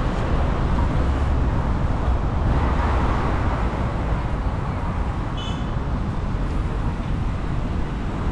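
Steady road and traffic noise heard from a moving bicycle, with low wind rumble on the microphone. A brief high-pitched tone sounds about five and a half seconds in.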